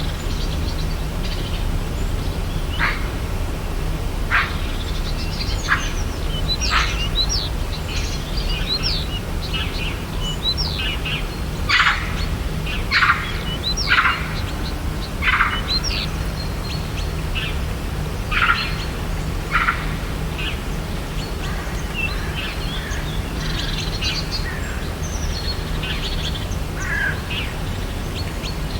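Birds calling and chirping: a string of short, sharp calls and quick sweeping chirps, busiest in the middle, over a steady low background hum.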